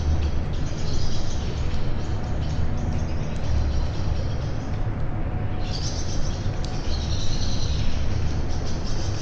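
Small birds chirping and calling over and over, with a brief lull about five seconds in. Underneath runs a steady hiss and an uneven low rumble.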